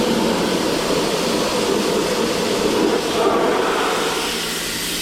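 A water jet spraying hard against a muddy wheel rim to wash the mud off, as a steady, loud hiss. A low steady hum joins it about four seconds in.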